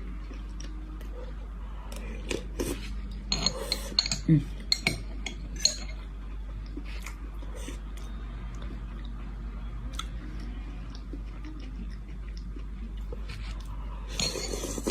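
Spoon clinking against a dish while eating, with mouth sounds between; clusters of clinks come a few seconds in and again near the end.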